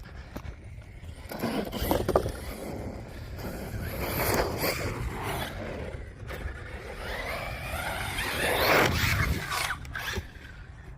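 Team Corally Kagama RC stunt truck driving, its electric motor whine rising and falling in pitch with the throttle, loudest about nine seconds in.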